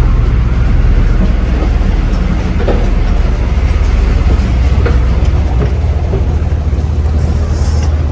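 Steady low drone of the ferry New Kasaoka's engine, heard on board, with a few faint knocks and rattles over it.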